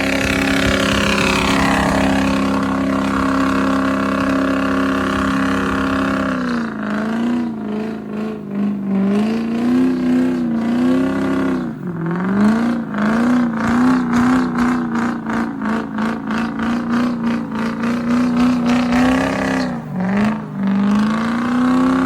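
A truck engine held at high revs for several seconds, then revved up and down repeatedly with a fast pulsing beat.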